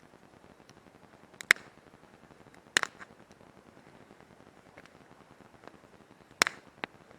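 Campfire crackling: wood popping sharply in the fire, about five separate pops with quiet between them, the loudest about a second and a half in.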